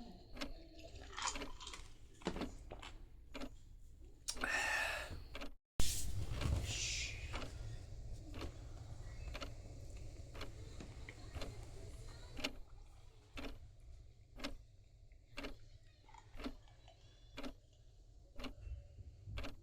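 Clock ticking about once a second in a quiet room, with a brief rustling noise around four seconds in and, after a short break, a sharp click and a short hiss.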